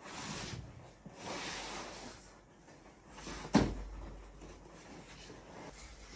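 Household handling noise: two short stretches of scraping, then a single sharp knock about three and a half seconds in.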